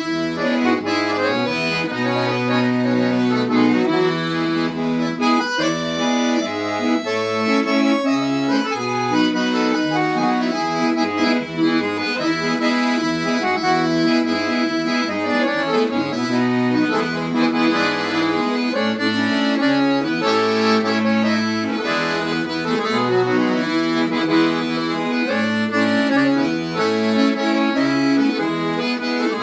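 Accordion playing a melody over a changing bass line.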